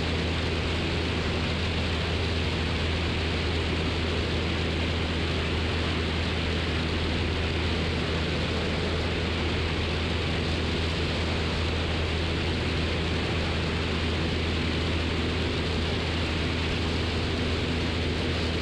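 Cessna 172's single piston engine and propeller droning steadily in cruise flight, heard from inside the cabin: an unchanging low hum under an even hiss.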